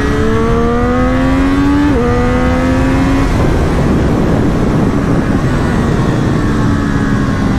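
Kawasaki Z900 inline-four motorcycle engine accelerating hard: the revs climb, dip briefly at an upshift about two seconds in, and climb again. After about three seconds a steady rush of wind noise takes over, with the engine running on underneath at speed.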